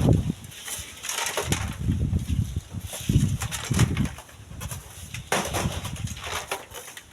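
Strong wind buffeting the microphone in irregular gusts, each a low surge lasting about half a second to a second, with a windy hiss above them.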